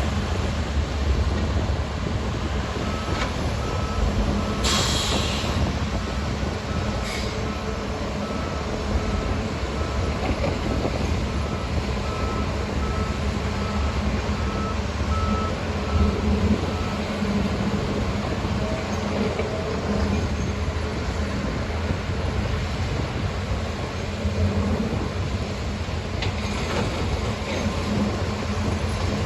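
Heavy construction machinery running with a steady low diesel rumble, while a reversing alarm beeps at an even rate for about thirteen seconds and then stops.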